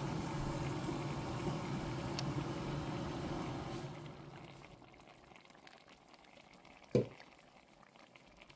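Chicken pieces bubbling in their own juices in a covered pot, a steady simmer that fades low about four seconds in. A single knock comes about seven seconds in.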